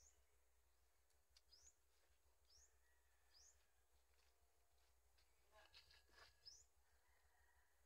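Faint bird calls: about five short, high, rising chirps about a second apart over a quiet background, with a few soft clicks a little past halfway.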